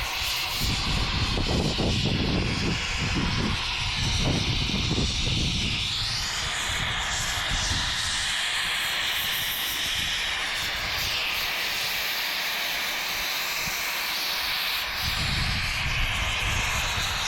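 A power tool running continuously and loudly, its high whine drifting up and down in pitch.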